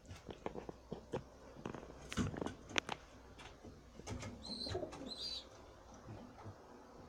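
Racing pigeons at close range: a run of short clicks and taps, then a brief coo and a few high squeaky peeps about four to five seconds in.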